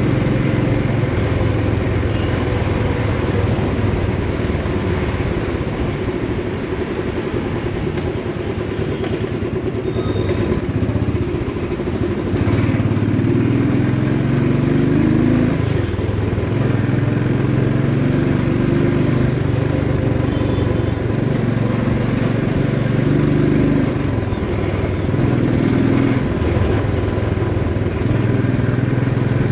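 Motorcycle engine running under way, its pitch rising and dropping several times as it is throttled up and eased off, with a quieter, lower stretch about a third of the way in.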